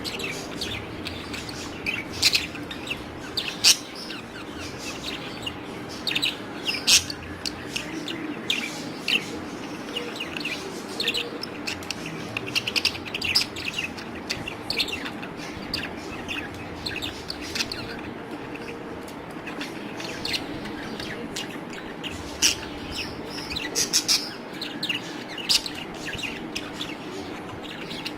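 Budgerigars chirping and chattering in a run of short, high, scratchy calls and clicks, over a steady low hum.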